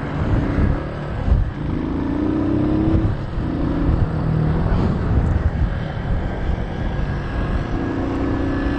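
Keeway Cafe Racer 152's single-cylinder engine running as the motorcycle is ridden, its pitch rising about two seconds in as it accelerates, with a steady rush of wind noise.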